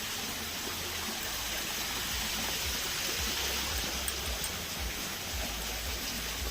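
Running water, a steady rushing flow like a stream or small waterfall, with uneven low rumbles underneath.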